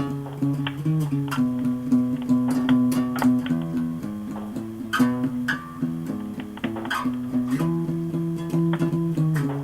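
Acoustic guitar music: plucked and strummed chords with a steady, changing bass line.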